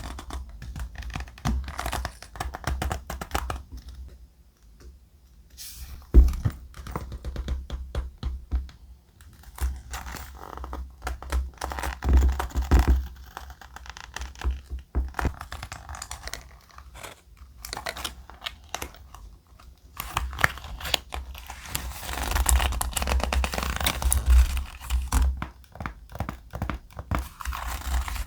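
Thick paper being handled close to the microphone: irregular rustling, crinkling and tapping, with a few short pauses and a denser, louder stretch of rustling near the end.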